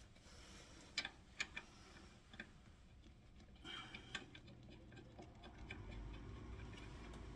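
A few faint, scattered clicks and light metallic ticks of small parts being handled, over quiet room tone.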